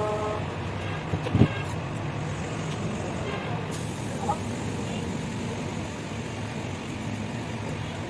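Steady low rumble with a single sharp knock about one and a half seconds in, and faint voices in the background.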